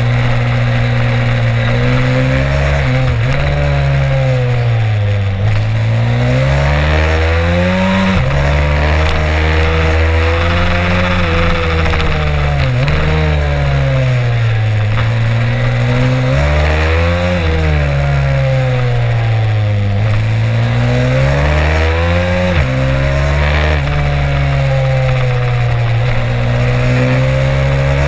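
Stomp 140 pit bike's single-cylinder four-stroke engine, heard onboard, revving hard through the gears: the engine note climbs, drops sharply at each shift and falls away for corners, over and over.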